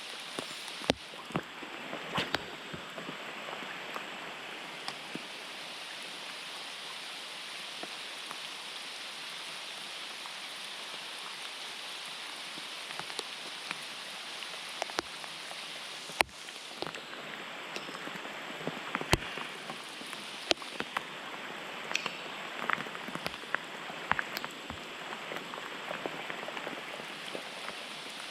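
Steady rain, an even hiss with many scattered sharp drop hits.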